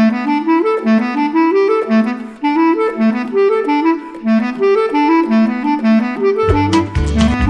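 Minimalist music for saxophones: short notes in quick, repeating rising figures. Near the end a low bass line comes in with sharper, percussive attacks.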